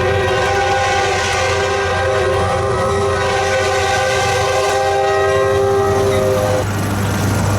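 Diesel freight locomotive's air horn sounding one long chord over the rumble of the engine, the horn cutting off about six seconds in while the locomotive keeps rumbling.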